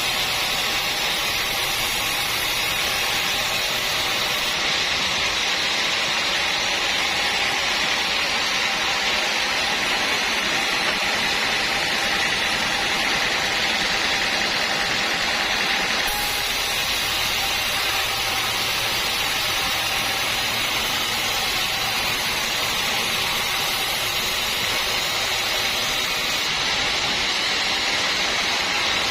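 Sawmill machinery running steadily, a continuous, even mechanical noise.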